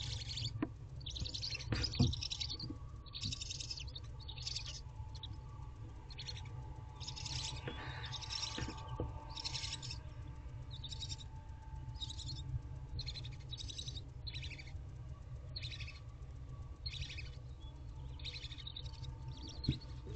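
Barn owl chicks in the nest box giving repeated rasping, hissing begging calls, about one a second, the calls of hungry owlets. A steady low hum runs underneath, with a few sharp clicks about two seconds in.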